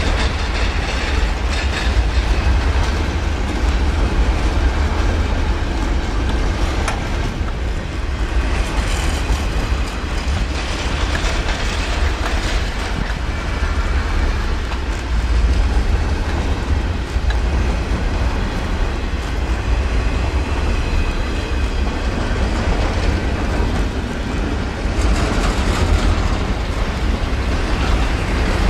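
A train rolling past at speed: a steady, loud rumble of steel wheels on rail that goes on without a break.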